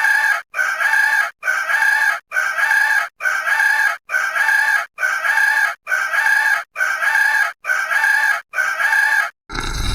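Chicken clucking: eleven short, alike calls, evenly spaced about one a second. Near the end a different, steady noisy sound begins.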